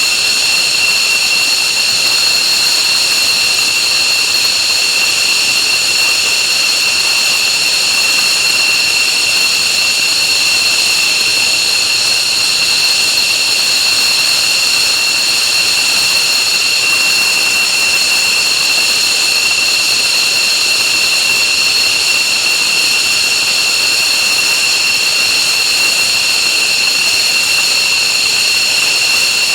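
F-15J Eagle's F100 turbofan jet engine running steadily: a loud, unchanging high whine of several steady tones over a rushing roar, distorted by the recording clipping.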